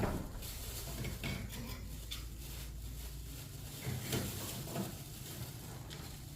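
Dishes and utensils clinking and knocking as they are handled, a few scattered strikes, over a low steady hum that stops about halfway through.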